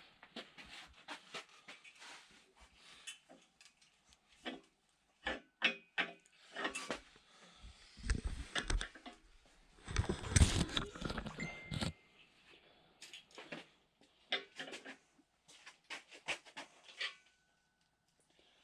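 Scattered clicks, taps and knocks of hand tools and parts being handled on a seized LS V8 engine during teardown, with two louder, rougher stretches of noise about eight and ten seconds in.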